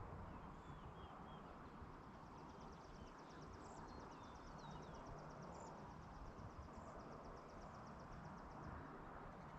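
Faint countryside ambience: a low steady background rumble with a few high bird chirps, and a high, rapid pulsing trill of about nine pulses a second that starts about two seconds in and runs for about seven seconds.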